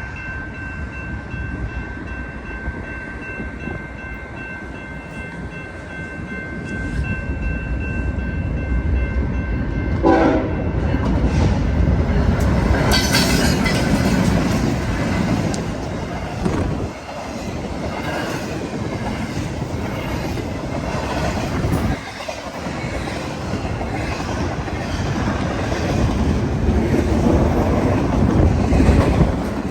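Freight locomotive horn sounding a steady chord for about the first ten seconds, then the BNSF intermodal freight train passing close: a loud rumble of the locomotive and cars with wheels clicking over the rail joints.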